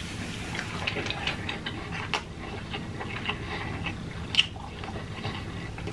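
A person chewing a mouthful of food close to the microphone, with scattered short clicks of the mouth.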